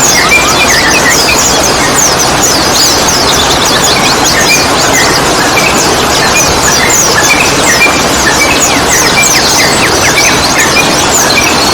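Dense chorus of many small birds chirping rapidly, mostly quick high falling notes with shorter lower calls among them, over a steady loud hiss; a bird 'therapy' recording played to get young sooty-headed bulbuls singing.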